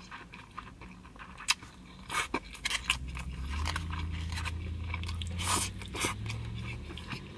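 Close-up chewing of a mouthful of grilled meat and broken rice, with wet mouth smacks and clicks scattered through it. A low steady hum runs through the middle few seconds.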